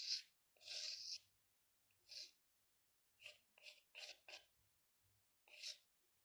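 Drawing strokes on paper, about eight short scratches with a quick run of four near the middle.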